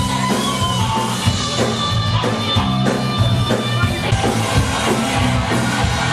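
Live punk rock band playing an instrumental passage: electric guitars over a steady drum kit and bass.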